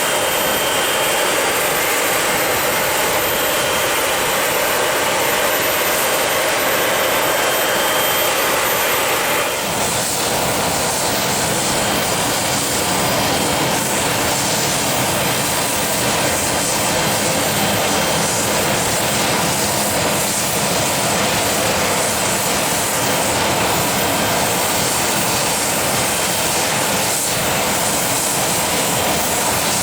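Business jet's engines running with a loud, steady rush of jet noise. About ten seconds in the sound changes abruptly: a faint whine drops out and the deeper rumble grows.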